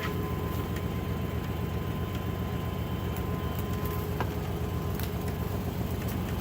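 1997 Chevrolet Suburban's 5.7-litre small-block V8 running at a steady idle, with no change in speed.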